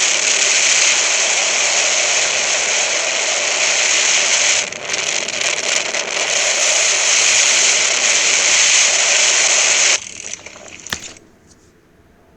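A loud, steady rushing roar of noise that dips briefly about five seconds in and cuts off abruptly about ten seconds in, leaving a quiet background with a few faint clicks.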